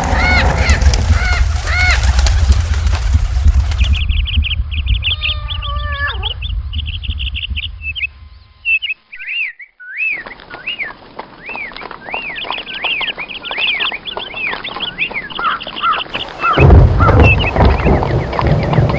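Birds calling in quick series of short arched chirps, with a steady low rumble under the first part and a brief drop-out about nine seconds in.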